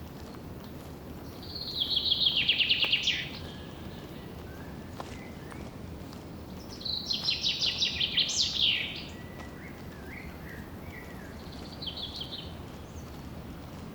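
A songbird singing a rapid trilled song three times: two trills of about two seconds each, ending in a quick upward sweep, then a shorter one. A steady low background hiss runs underneath.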